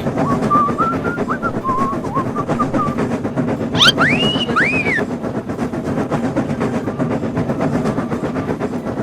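Train running on track, a steady rumble, with two short rising-and-falling whistle-like tones about four seconds in.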